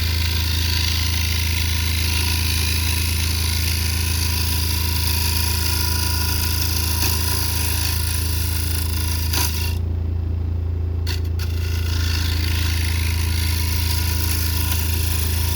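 Wood lathe running with a steady motor hum while a carbide turning tool cuts a spinning yellow cedar and walnut bowl blank, a continuous rushing scrape. About ten seconds in the cutting stops briefly as the tool comes off the wood, then resumes.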